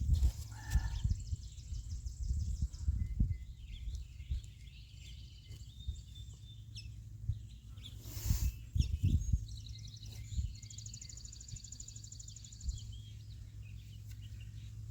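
Birds calling outdoors, with rapid high trills near the start and again about two-thirds of the way through. Under them runs a steady low rumble, and a brief rustle comes about halfway through.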